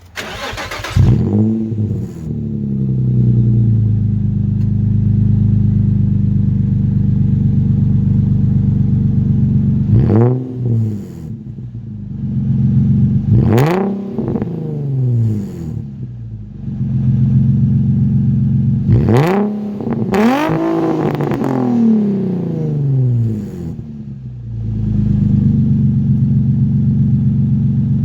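2006 Infiniti G35's 3.5-litre V6 idling loudly through an ISR dual blast pipe exhaust. It is blipped several times, each rev rising quickly and falling back to idle.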